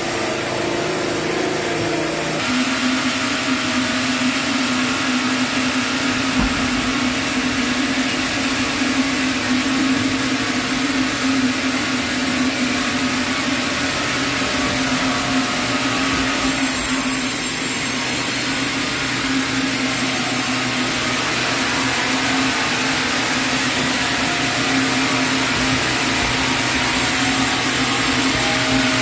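Sawmill saw running steadily through a chinaberry log, a steady mechanical hum over the noise of the cut. About two seconds in the hum drops to a lower pitch and then holds.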